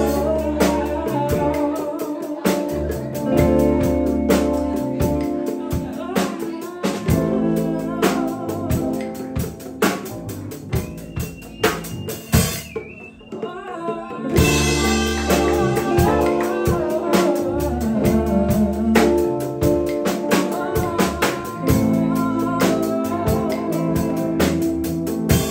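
Live band playing a jam with a drum kit and sustained bass and instrument notes. About halfway through, the bass and drums drop out for a couple of seconds under a sliding note, then the full band comes back in.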